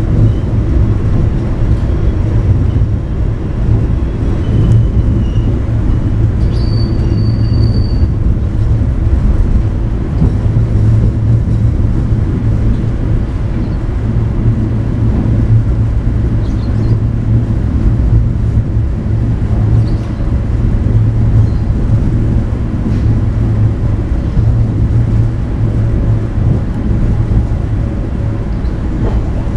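Inside the carriage of a local passenger train running along the track: a steady low rumble from the train in motion. A brief thin high tone comes in about seven seconds in.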